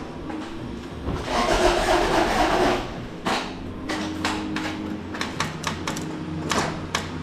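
A spray of starter fluid hissing for about a second and a half into the Honda Civic's 1.5L engine intake, then a string of irregular clicks and knocks.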